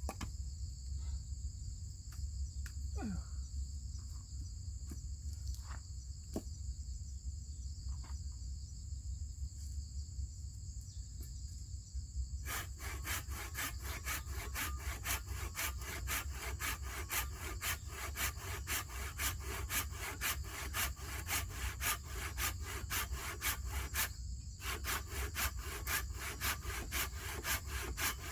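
Hand saw cutting through wood from a storm-broken tree in quick, even back-and-forth strokes, starting about halfway through and pausing briefly near the end before going on. Before the sawing, only a steady high insect buzz and a few light knocks.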